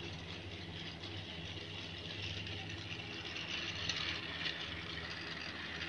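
Battery-powered toy train running on its track, a steady whir from its small electric motor and wheels.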